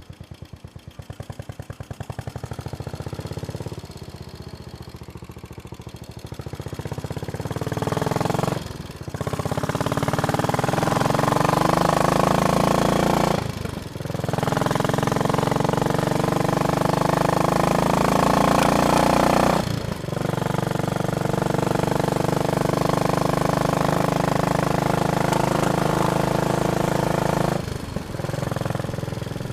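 Royal Enfield Bullet Machismo 500's single-cylinder engine thumping at low revs, then pulling up through the gears: the pitch rises in each gear and dips briefly four times at the gear changes.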